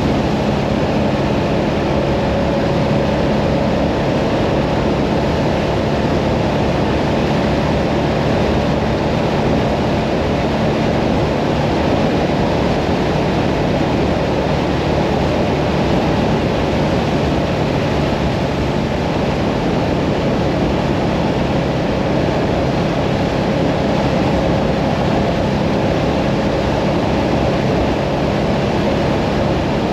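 Hyosung Mirage 650 V-twin motorcycle engine running at a steady cruising speed on the open road, with a steady rush of wind and road noise over it.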